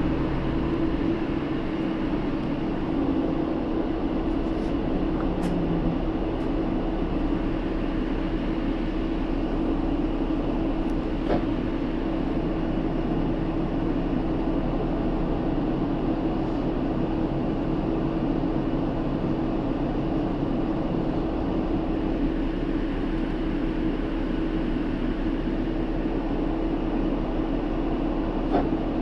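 Inside the cabin of a Hino Rainbow II diesel city bus: a steady engine hum with a constant drone, and a few faint clicks.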